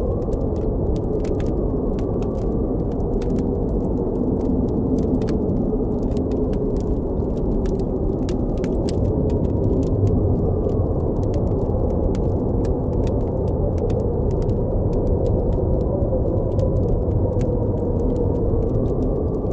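Blizzard wind blowing in a steady low rush with a faint whistle that rises and falls, over a campfire crackling and popping with frequent sharp snaps.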